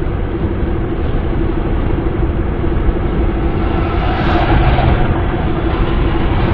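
Wind and road noise of a car driving, heard from inside the cabin: a loud, steady rumble with a constant low hum. The noise swells briefly about four seconds in.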